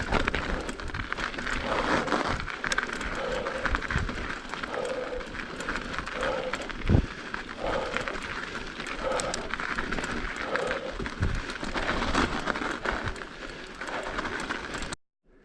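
Mountain bike riding over an icy, bumpy trail: tyres crunching and the bike rattling, with many small clicks and a sharp knock about seven seconds in. The sound cuts off abruptly near the end.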